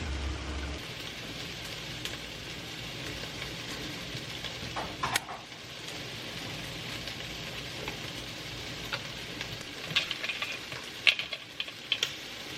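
Food sizzling steadily in a frying pan, with a few clicks and scrapes of a utensil in the pan about halfway through and near the end.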